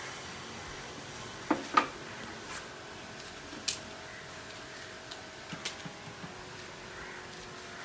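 A few scattered sharp clicks and knocks, the loudest about two seconds in, over a steady low hiss.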